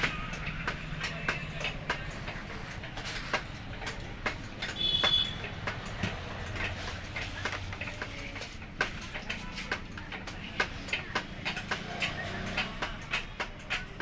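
Irregular clicks and clinks of hand tools at work on a motorcycle engine, with a brief high-pitched tone about five seconds in.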